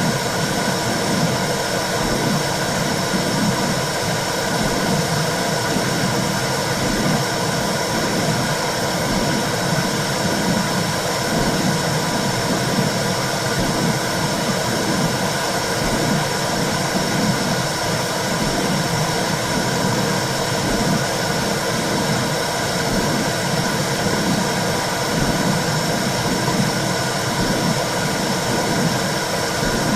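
Womb-sound recording for soothing a baby: a steady whooshing rush with a rhythmic low pulse, like a maternal heartbeat heard through the body.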